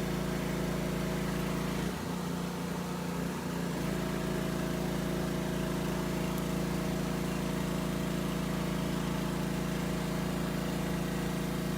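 Engine-driven generator running with a steady hum. About two seconds in, its note falters and dips for a second or two, then settles back to the same steady pitch.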